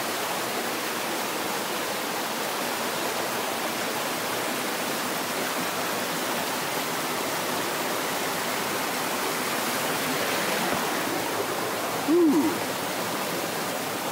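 Steady rushing of a stream and waterfall. About twelve seconds in comes a brief, short voice sound.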